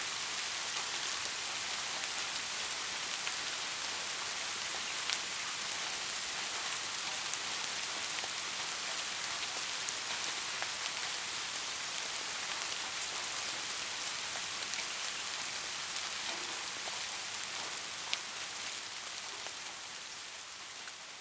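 Steady rain hiss with scattered sharp drip ticks, fading down over the last couple of seconds.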